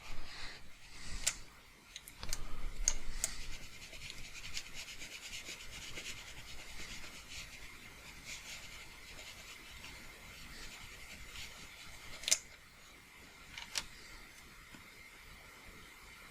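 Faint rubbing and scratching of a hand working a desktop input device over its pad, with a few sharp clicks scattered through it, the loudest one about twelve seconds in.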